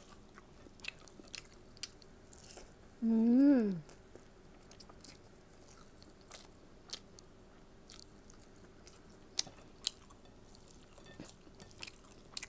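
Close-up chewing of a mouthful of rice and fried food, with wet sharp mouth clicks scattered throughout. About three seconds in comes a short 'mmm' of enjoyment that rises and then falls in pitch.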